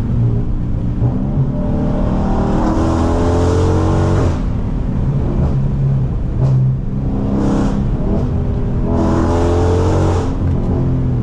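Dodge Charger Scat Pack's 392 HEMI V8, run fully straight-piped through JBA catless midpipes and an MBRP race exhaust with no mufflers or resonator. It accelerates hard twice, the engine note rising each time and dropping off suddenly, the first at about four seconds in and the second near the end.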